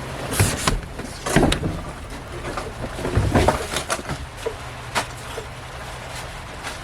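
Knocks, clanks and rustling as a folding pop-up canopy tarp is handled and set up, the loudest clatters about one and a half and three seconds in, with a sharp click about five seconds in.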